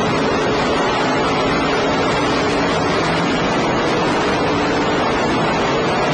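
Race car engines of a dirt-track feature field running at speed, heard as a steady, distorted wall of noise from a poor-quality recording.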